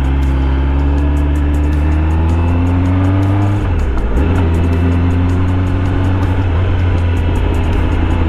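Kawasaki ZX-10R's inline-four engine running under way, its pitch climbing slowly with speed, dipping briefly about three and a half seconds in as it changes gear, then steady again.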